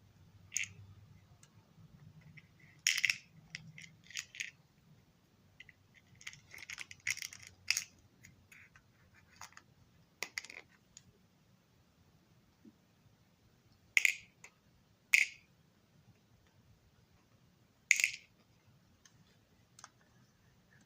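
Scattered light clicks and scrapes of small hard parts and tools being handled on a work surface, with three sharper, louder clicks in the second half.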